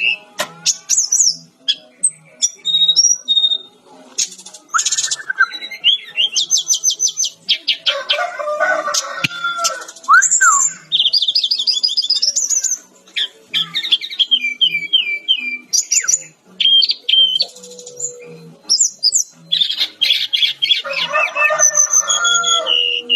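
Sikatan-rimba dada-coklat (a Cyornis jungle flycatcher) singing a fast, varied song of rapid trills, chattering runs and short gliding whistles, phrase after phrase with brief gaps.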